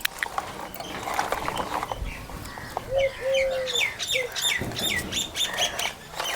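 Small bird chirping in a quick series of short, falling notes from about three seconds in, with a few lower whistled notes among them; faint clicks before.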